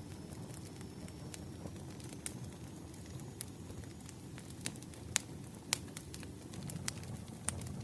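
Wood fire crackling, with a steady low rumble of flames and scattered sharp pops of burning logs, a few louder ones about five seconds in.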